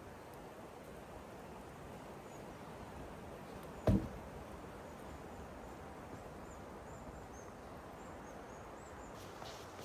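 Steady outdoor background hiss with a few faint, short, high chirps, and one dull thump about four seconds in.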